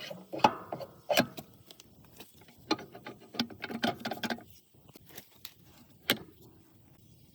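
Scattered metallic clinks and knocks of tools and metal parts being handled during axle repair work, with a run of rattling clatter in the middle and a last sharp clink about six seconds in.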